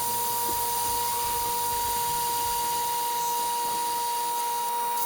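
Coolant vacuum-fill kit drawing vacuum on the engine's cooling system: a steady hiss of air with a steady high whistle.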